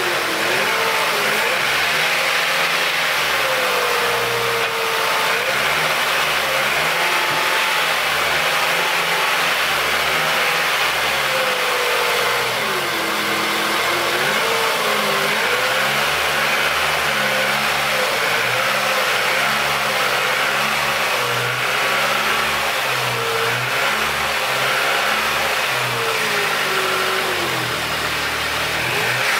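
Ford Focus engine running in the open engine bay, its speed wandering unevenly up and down rather than holding a steady idle, with a marked drop in revs about halfway through.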